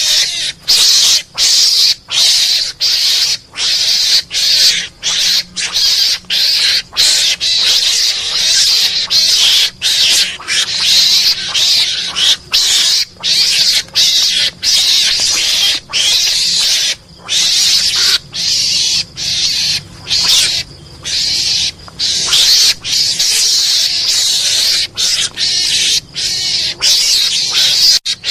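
Mongoose (garangan) lure call: harsh, high-pitched chattering squeals repeated in short bursts with brief gaps, roughly two a second, used by hunters to draw mongooses in.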